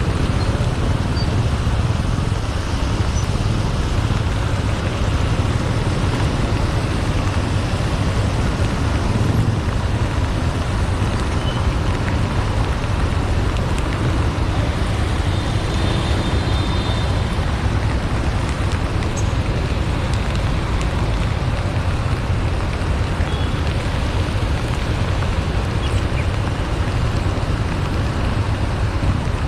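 Steady rush of road and wind noise from a motorcycle riding in the rain, with the bike's engine running underneath.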